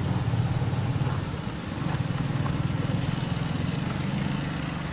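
A motor vehicle's engine running steadily at low revs, dipping briefly about a second and a half in and then carrying on.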